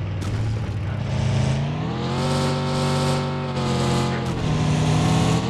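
Car engine running and revving: the pitch climbs about two seconds in, holds, drops back, then climbs again near the end.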